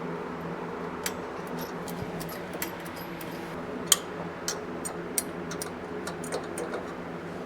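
Scattered light clicks and taps of hand tools and metal parts being handled in the VW Bus engine bay, over a steady low hum.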